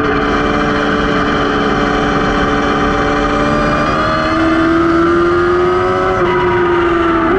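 Racing motorcycle engine running hard at high, near-steady revs, its pitch creeping up from about halfway and dipping briefly near the end, over rushing wind and tyre noise, heard from a camera mounted at the rear axle.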